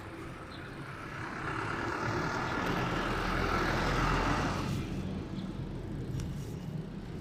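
Road and traffic noise picked up by an action camera on a moving bicycle, swelling to a peak about four seconds in and dropping off sharply just after, like a motor vehicle going past.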